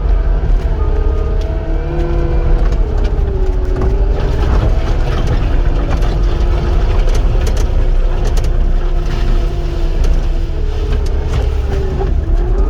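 Caterpillar 259 skid steer's diesel engine running at working revs, its pitch rising and falling as the machine is worked. A few short knocks come through in the middle.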